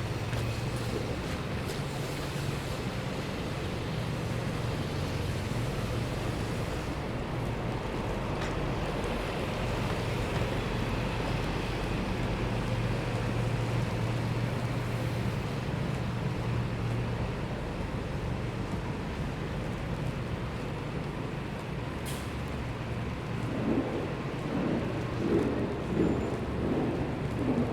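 Steady city street noise: traffic rumble and wind, with a low engine hum underneath. It grows louder and more uneven in the last few seconds.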